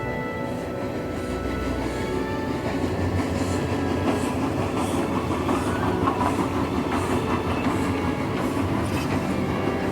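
A train running along the track, a steady rattle with regular clicks of wheels over rail joints. Music fades out in the first two seconds.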